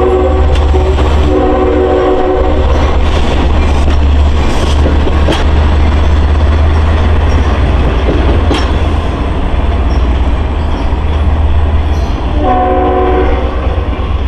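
An LIRR diesel train, a DM30AC locomotive hauling C3 bilevel coaches, rolling past with a heavy rumble and clicking wheels. Its chord horn sounds about a second in and again near the end.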